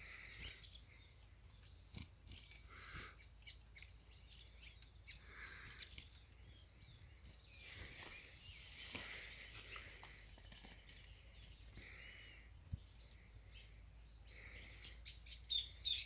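A few short, scattered bird chirps over faint clicks and rattles of hands handling a wooden-and-wire trap cage, with one sharp click just under a second in.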